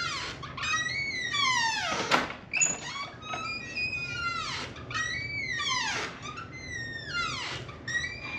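Squeaky door hinge creaking over and over as the door is swung back and forth: a run of long, high, pitched squeaks that slide in pitch, one after another.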